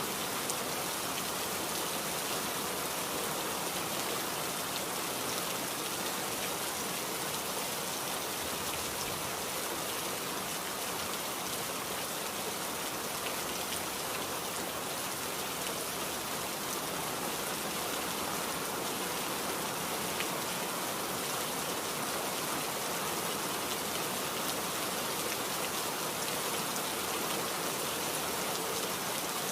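Steady rainfall, an even hiss of many drops hitting surfaces, with a few louder individual drops now and then.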